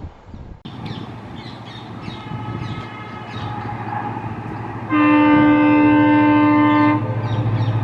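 EMD WDP4D diesel locomotives approaching, their engine drone building. About five seconds in, the locomotive's multi-tone horn sounds one long blast of about two seconds, the loudest sound here, then the engine drone runs on.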